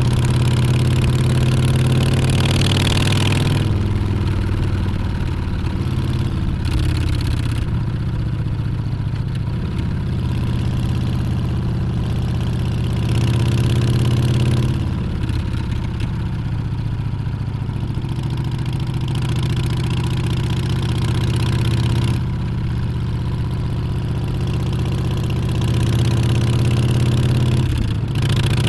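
Harley-Davidson Street Bob's Milwaukee-Eight 114 V-twin engine running while riding, its note swelling and easing a few times as the throttle changes.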